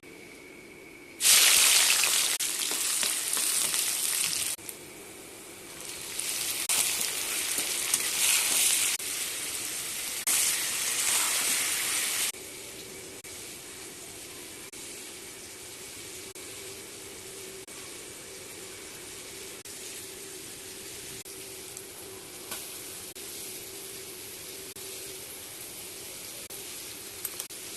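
Chicken sizzling as it fries in hot oil. The hiss comes in loud stretches during the first twelve seconds, then settles into a steadier, quieter sizzle.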